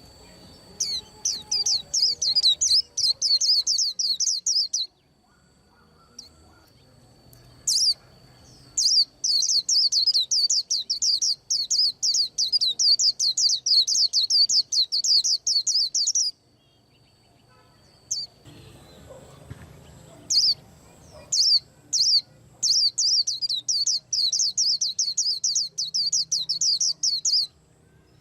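White-eye singing in three long runs of fast, high chirping notes, about five a second, with pauses of a few seconds between runs. A faint steady high whine can be heard in the pauses.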